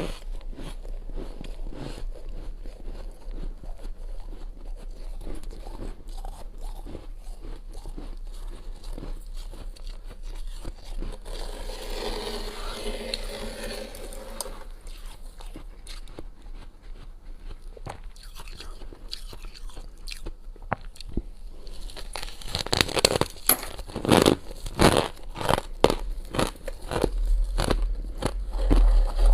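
Freezer frost and thin ice being bitten and chewed close to the microphone: a steady stream of small crackling crunches, with a run of much louder crunches in the last several seconds.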